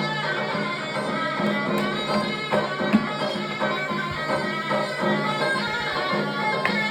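Turkish folk music on davul and zurna: a reedy melody over a steady low note, with drum beats through it.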